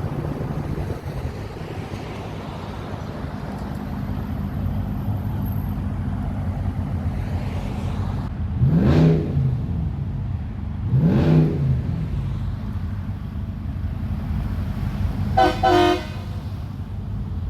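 A car driving, with steady engine and road noise. About nine and eleven seconds in come two brief louder surges that rise and fall in pitch, and near the end a car horn sounds briefly twice.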